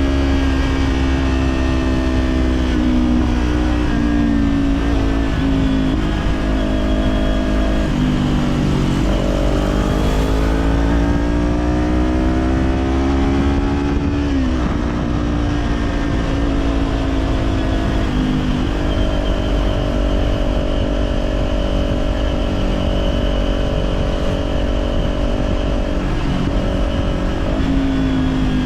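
Kawasaki Z400 parallel-twin engine through an Orion Katya slip-on exhaust, riding on the road. The pitch steps up and down with the throttle and gears, climbs steadily for about five seconds midway, drops off, then holds steady for several seconds. Wind rumbles on the helmet-mounted microphone throughout.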